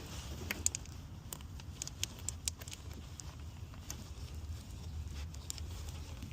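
Scattered light clicks and taps of hands disconnecting parts around a car's engine intake, over a steady low rumble in the background.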